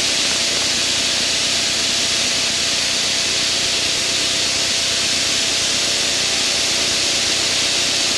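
Steady, loud hiss of wind and engine noise inside a small aircraft's cockpit in flight, with a faint steady hum underneath.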